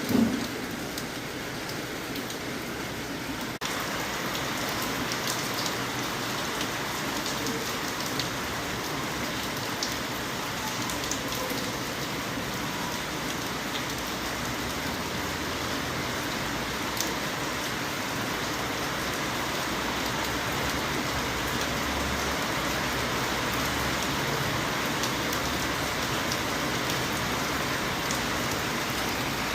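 Steady rain falling, a dense even hiss with scattered sharp drop ticks. A brief low thud comes right at the start, and the rain grows slightly louder about three and a half seconds in.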